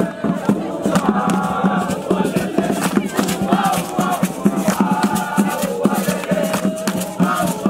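A group of voices singing a chant over quick, steady beats of hand percussion.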